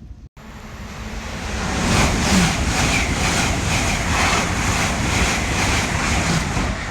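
Train passing through at speed: a rushing rumble of wheels on the rails that builds over the first two seconds, then holds loud with a regular beat about twice a second from the wheels.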